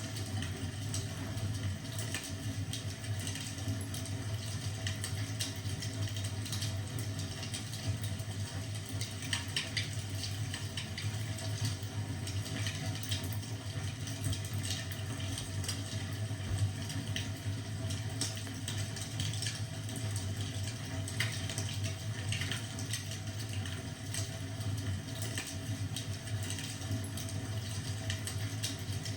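Fireplace crackling, irregular small pops and snaps over a steady low hum.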